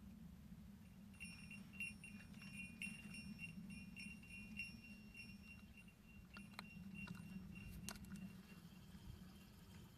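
Small bite-alarm bell on a fishing rod jingling faintly in quick repeated tinkles as a fish, a crucian carp, takes the bait, followed near the end by a few sharp clicks.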